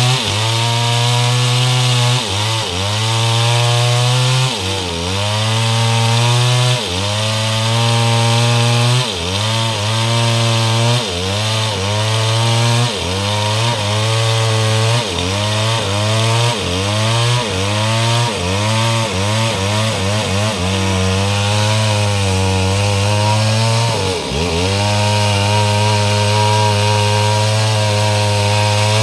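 STIHL MS 382 two-stroke chainsaw with a 30-inch bar sawing mahogany. Its engine speed drops and recovers again and again, every second or two, then holds steady near the end.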